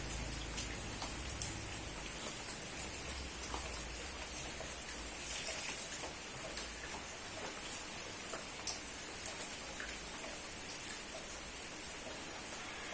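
Steady rain falling: a constant hiss with scattered sharp ticks of single drops striking a surface.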